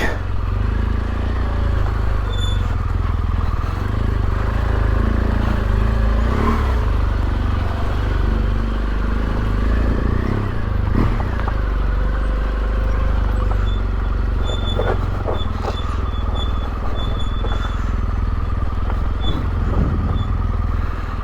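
Yamaha Ténéré 700's parallel-twin engine running at low speed as the bike is ridden slowly, a steady low rumble with a few short knocks partway through.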